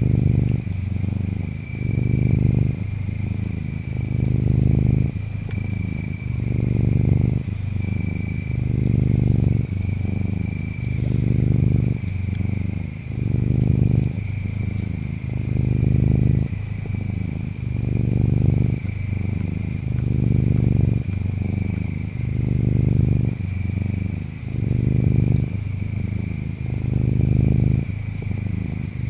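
Domestic cat purring, a low rumble that swells and fades with each breath, a little faster than once a second. Under it, steady insect chirping with bursts of high trills every few seconds.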